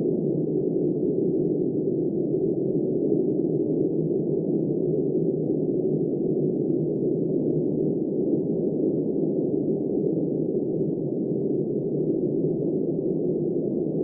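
Blizzard wind blowing steadily, a dull, muffled rush with no gusts or sharp sounds.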